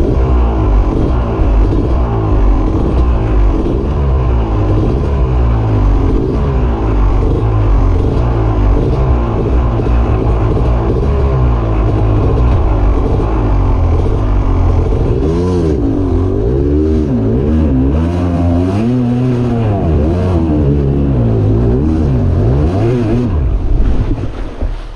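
Engine run hard near full throttle for the whole stretch, its pitch rising and falling again and again as the revs surge and drop while it fights its way up through the river rocks.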